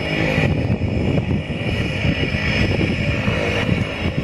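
Turbine Cessna Caravan floatplane's PT6A turboprop engine running steadily as the plane backs out from the dock: a high turbine whine over a low propeller drone.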